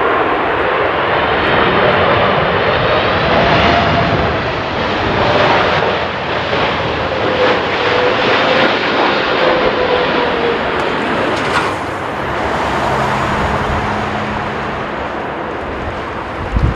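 Jet airliner's engines running loud as it flies past, with a wavering whine over a broad rushing noise that is strongest in the first few seconds and then slowly eases.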